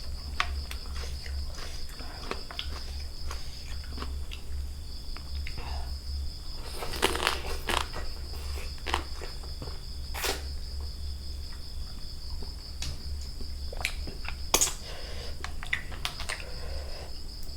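Scattered crunches and clicks of people eating and chewing, over a steady high insect trill and a low hum.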